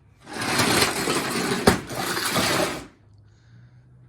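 A burst of metallic clattering and scraping lasting about two and a half seconds, with one sharp knock in the middle, then a faint low hum.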